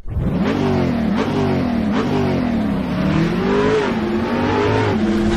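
Car engine revving, its pitch climbing and dropping several times.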